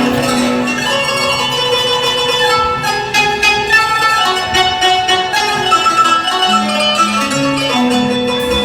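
Live instrumental music led by plucked string instruments playing a melody of held, ringing notes, with a lower line entering about six and a half seconds in.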